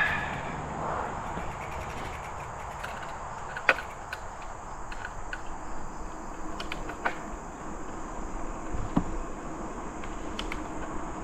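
Riding sounds from a bicycle on the trail: steady rolling and wind noise with a few sharp clicks and knocks from the bike. Over it runs a constant high-pitched drone of crickets or other insects.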